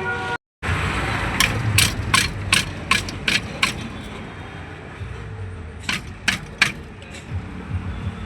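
Hand-tool work on the truck's metal exhaust while the new silencer is fitted: a run of about seven sharp metallic clicks, roughly three a second, then four more a few seconds later, over a low steady rumble.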